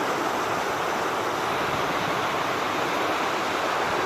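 Steady rushing of fast-flowing water, an even unbroken noise.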